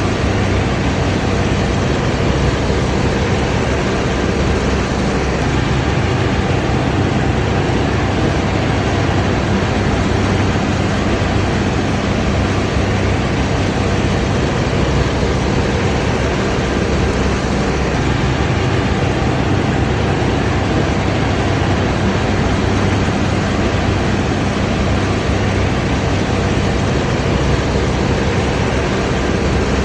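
Combine harvester's diesel engine and threshing machinery running steadily.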